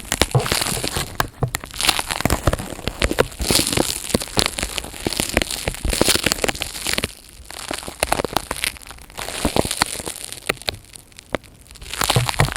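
Close-miked ASMR crinkling and crackling of handled material, a dense run of irregular small crackles with two quieter spells, one around the middle and one near the end.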